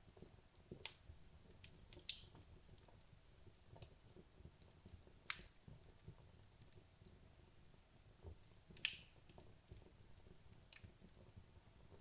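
Wood fire crackling: logs burning with scattered sharp pops and snaps over a faint low rumble of flame, the loudest pops about two, five, nine and eleven seconds in.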